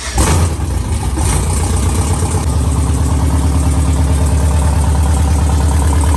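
Freshly rebuilt, custom-cammed V8 in a Chevy Silverado running just after its first start-up following the engine swap. It surges briefly in the first half-second, then runs loudly and steadily with an even low pulse.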